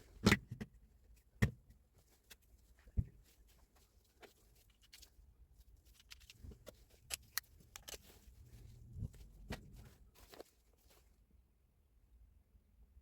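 Irregular clicks and knocks of hard objects being handled, the loudest three in the first three seconds, with a cluster of smaller clicks later.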